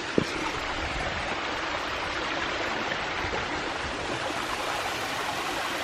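Mountain stream and small waterfall rushing steadily, with a single brief knock just after the start.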